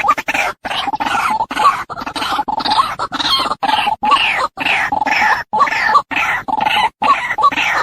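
Female white-breasted waterhen (ruak-ruak) calling: a fast, continuous series of short 'wak' calls broken by brief silent gaps, played as a lure call for trapping waterhens.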